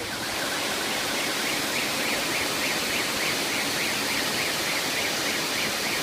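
Steady rushing noise of flowing water, like a stream or waterfall, with a high chirping call repeated about four times a second over it.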